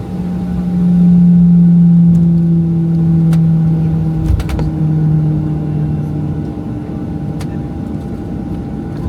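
Boeing 737-700 cabin noise: the steady hum of the jet engines and airflow, with a low drone that swells about a second in and eases off after about six seconds. A few faint clicks sound in the cabin.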